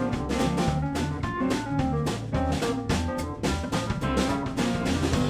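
Live blues band playing an instrumental passage: drum kit keeping a steady beat under bass and guitar, with no singing.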